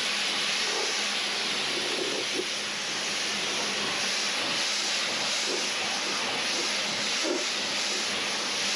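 Pressure washer spraying a steady jet of water onto the car, a continuous hiss with a faint motor hum underneath.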